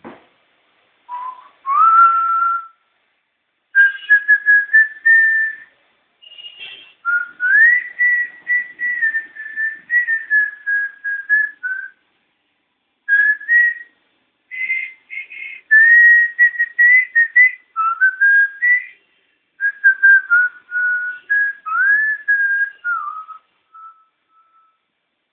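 A person whistling a melody in several phrases, with short pauses between them, trailing off in a few soft notes near the end.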